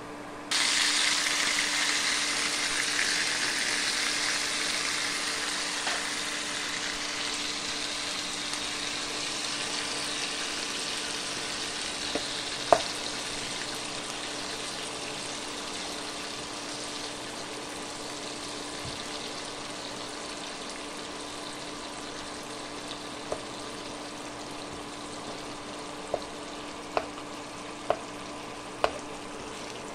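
Corned beef tipped into hot oil and fried garlic in a nonstick pan, starting to sizzle loudly all at once about half a second in, then slowly settling to a steadier frying hiss. A spatula stirs it, with a few sharp taps against the pan midway and several more near the end, over the induction cooktop's steady hum.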